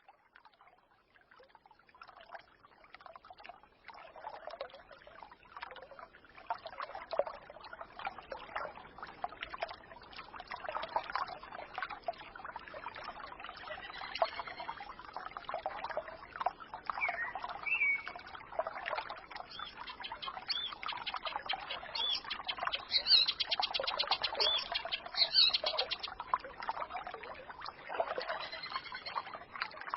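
A small forest stream trickling and babbling, fading in over the first few seconds. Birds chirp and twitter over it from about halfway through, most strongly a little past two-thirds of the way.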